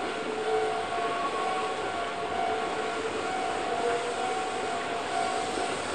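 Approaching train on the rails: a steady high whine of several held tones over a rushing rail noise that grows slowly louder.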